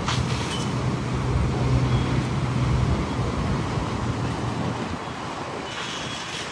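Motor vehicle engine with road traffic noise, a steady low hum that fades about five seconds in.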